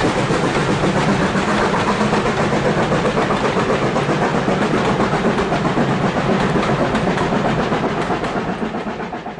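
A train running past on the line with a fast, even pulsing, fading away near the end as it draws off.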